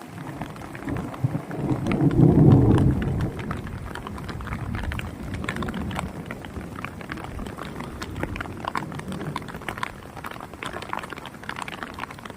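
Rain and hail falling, with many sharp ticks of impacts striking surfaces. A louder low rumble comes about two seconds in.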